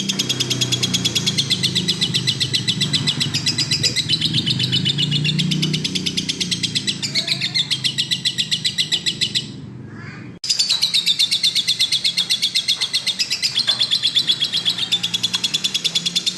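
Lovebird singing a long, continuous chattering trill: a very fast run of high repeated notes. The trill breaks off briefly a little past halfway, then starts again abruptly.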